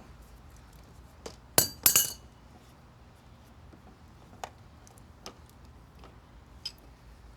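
Metal tools clinking against an old outdoor spigot and its pipe while it is worked loose: a quick cluster of three sharp clinks about two seconds in, then a few lighter, spaced-out clicks.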